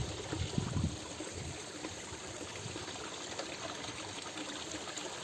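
Stream water running steadily over rocks, with a few soft low thumps in the first second.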